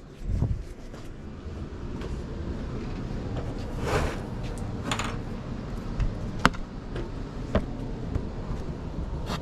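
A few scattered knocks and clicks over a low, steady rumble, the sharpest about six and a half seconds in.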